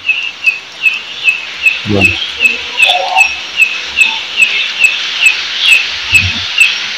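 A frog calling over and over in short, high, slightly falling chirps, about three a second, which the listener takes for a frog. Two brief low sounds come about two seconds in and again near the end.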